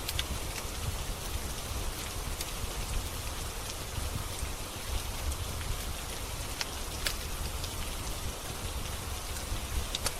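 Steady rain with a low rumble beneath it, mixed with the occasional sharp crackle of a wood fire burning in a fireplace.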